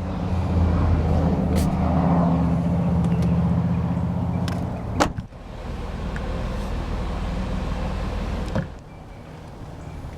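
A motor vehicle engine running steadily with a low hum. It drops in level after a sharp click about five seconds in, and a second click comes near the end.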